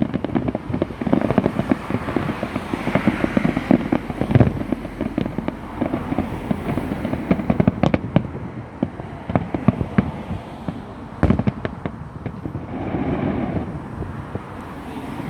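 Aerial fireworks display going off: dense crackling with rapid small bangs, and a few heavier booms, one about four seconds in and one about eleven seconds in.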